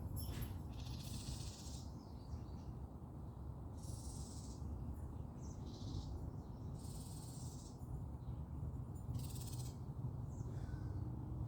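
Garden birds calling in about five short, high-pitched bursts, each under a second, over a steady low rumble.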